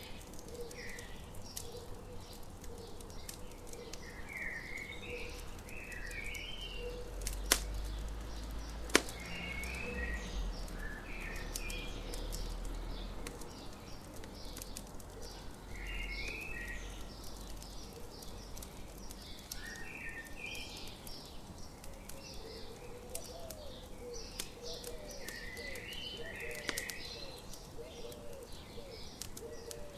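Morning birdsong, short chirping phrases repeated over and over, over a crackling campfire with scattered faint crackles and two sharp pops about seven and nine seconds in. A low rumble comes and goes underneath.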